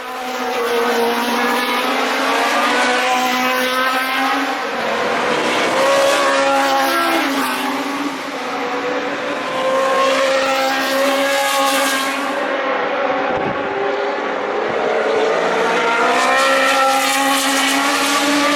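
Historic Formula 1 cars with Cosworth DFV V8 engines racing past, one after another, at high revs. The engine pitch climbs and drops repeatedly through gear changes and braking, with the sound easing briefly a few times between cars.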